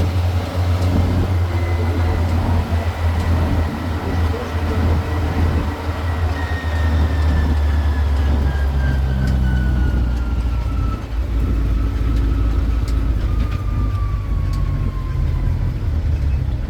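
Tourist road train's engine running steadily with a deep hum as it drives along, with a high whine that slides slowly down in pitch in the second half.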